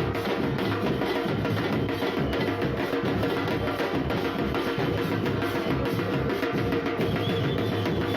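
Football supporters' drum band playing percussion in a steady, continuous rhythm.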